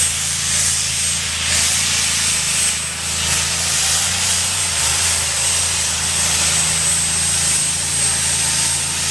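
A tractor-pulling engine running steadily, with a loud hiss and a constant thin high whine above a low hum.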